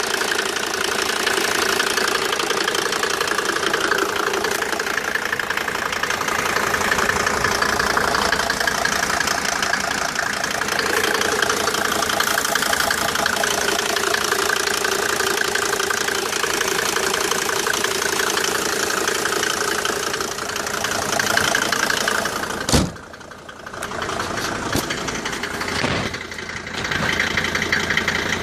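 Mercedes-Benz OM605 five-cylinder turbodiesel running with a steady, even clatter, the strange engine noise the owner is showing. About three-quarters of the way in there is a sharp knock, after which the sound turns muffled and quieter for a few seconds before returning.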